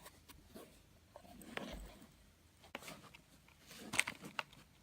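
Quiet handling noises: a few scattered light clicks and knocks with a brief soft rustle, as things are moved about in and around an airsoft gun case and its foam.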